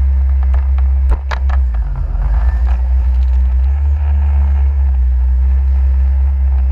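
Jet ski under way: a steady, loud low rumble. A few sharp knocks come about a second in.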